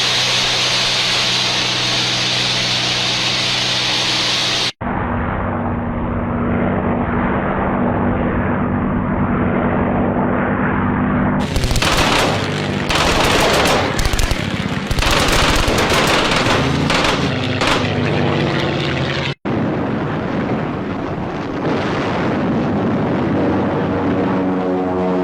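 Wartime sound recordings joined by abrupt cuts: a steady engine drone, then a stretch of rapid gunfire with many close shots, then another steady engine drone that shifts in pitch near the end.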